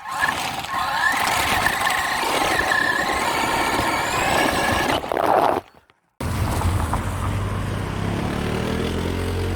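RC truck motor whining over a noisy hiss as the truck is driven, the pitch wavering up and down. About six seconds in the sound cuts out briefly and gives way to a steady low hum.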